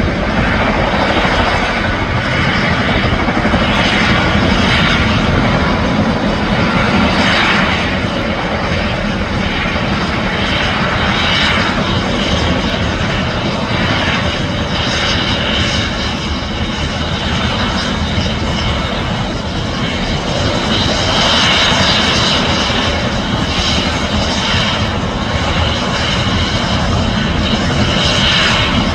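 Mil Mi-17 helicopter's twin turboshaft engines and main rotor running, a loud, steady noise with no break.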